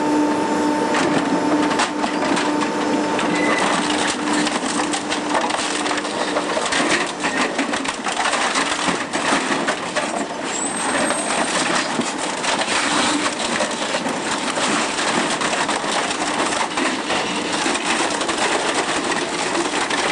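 Saturn 62-40HT dual-shaft shredder tearing up vacuum cleaners: a continuous crunching and cracking as the shafts break them apart, with a steady hum that fades in the first few seconds.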